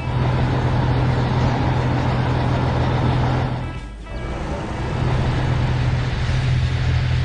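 Cartoon vehicle engine sound effect, a steady running hum that drops out briefly about four seconds in and then resumes.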